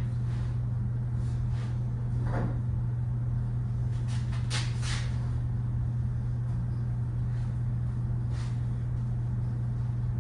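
A steady low hum, with a few light knocks and clacks: once about two seconds in, a cluster around four to five seconds, and one more near the end.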